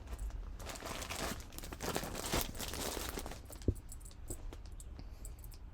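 Crinkling and rustling of a bag being rummaged through to get out trim, lasting a couple of seconds, followed by a few small clicks and one sharp tap.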